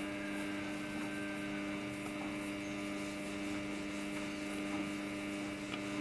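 Samsung front-load washing machine giving off a steady electric hum near the end of its rinse and spin cycle, after the drum has stopped spinning.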